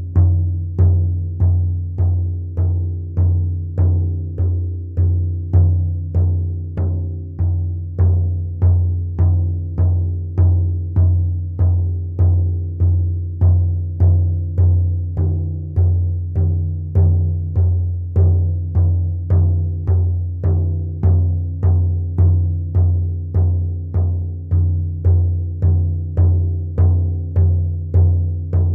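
Frame drum (shaman's бубен) beaten in a steady, even rhythm of about two strikes a second, each stroke giving a deep ringing tone that carries into the next.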